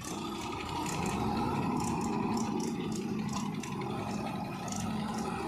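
Heavy diesel engine running steadily, with a light irregular rattle of clicks over it.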